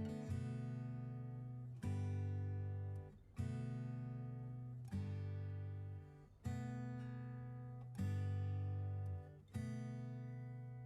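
Acoustic guitar music: a chord strummed about every second and a half, each one ringing out and fading before the next.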